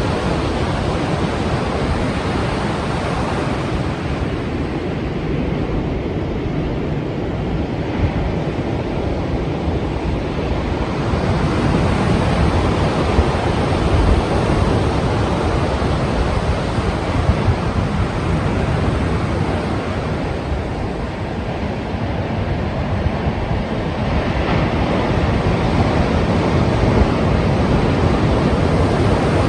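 Strong sea waves breaking in surf: a continuous rushing wash that swells and eases over several seconds at a time.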